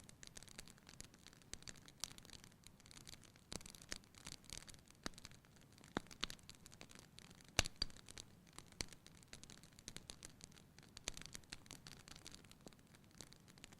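Wood fire burning in a fireplace, crackling and popping irregularly over a soft hiss, with one sharper pop about halfway through.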